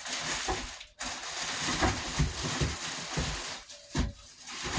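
Cardboard box and packing material being handled: crackling and crunching with scattered low knocks. The noise stops abruptly about a second in, then goes on before easing off near the end.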